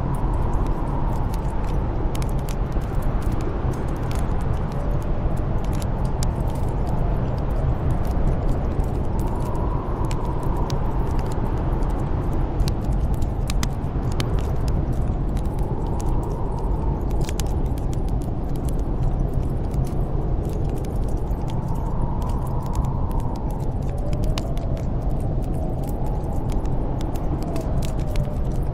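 Snowstorm wind blowing steadily with a deep rumble, and a howling whistle that swells and fades every few seconds as gusts come through, mixed with the light crackle and pops of a wood fire.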